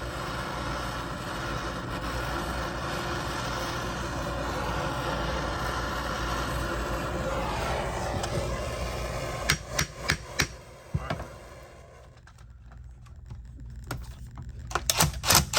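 A torch flame hisses steadily while a seized, rusted starter bolt is heated. About nine seconds in, sharp metal-on-metal hammer blows begin: a few strikes, a short pause, then a quick run of strikes near the end.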